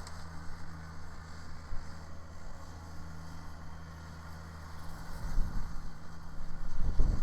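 Kubota BX sub-compact tractor's three-cylinder diesel engine running steadily with its rear snow blower, a low hum; from about five seconds in a louder, uneven low rumble builds.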